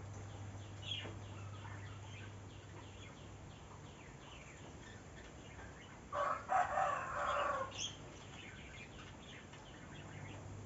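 A rooster crows once, about six seconds in, over a background of small birds chirping and a steady low hum.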